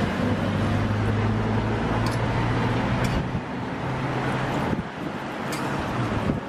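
Roti frying in oil on a flat steel griddle, a steady sizzle, over the low steady hum of an engine running. A few light clicks.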